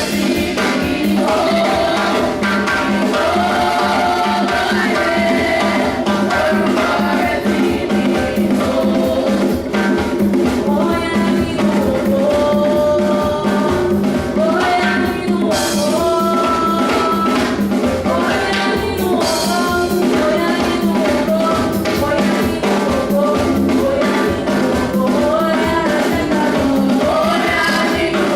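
Choir singing with drums and percussion, a steady, unbroken song.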